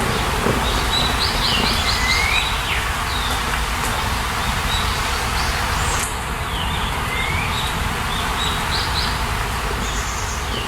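Birds singing over a steady hiss of ambient noise, with a short chirping phrase about a second in that comes again about seven seconds in.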